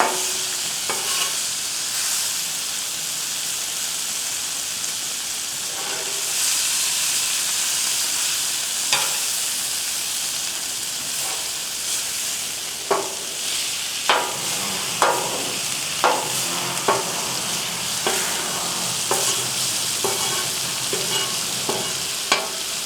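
Food sizzling steadily on a griddle, heard as a constant high hiss. From about halfway through, a series of sharp knocks comes roughly once a second over a low hum: a loud background noise whose source the cook cannot identify.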